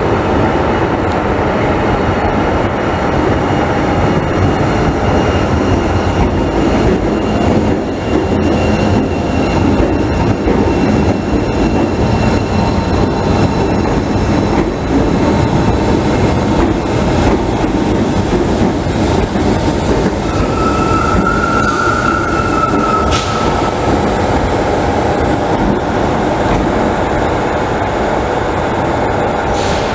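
Class 314 electric multiple unit running at speed, heard from inside: a steady rumble of wheels on rail, with a brief higher squeal about twenty seconds in.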